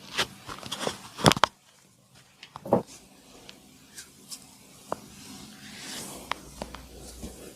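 Hands slapping and pressing on a person's back during a massage: a run of irregular sharp slaps and taps. The loudest come about a second in, with another strong one near three seconds, then fainter taps.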